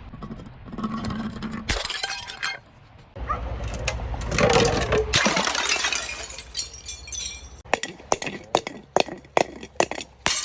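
Glass bottles being crushed, cracking and shattering. A loud crash comes about two seconds in, then a longer crunch, then a quick run of sharp clinks from the glass pieces near the end.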